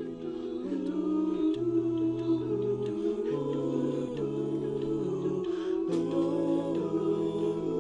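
All-male a cappella group singing wordless held chords, the bass voice stepping between long notes beneath the upper harmonies.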